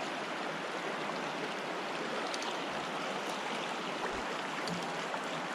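Rushing water of river shoals and rapids: a steady, even hiss.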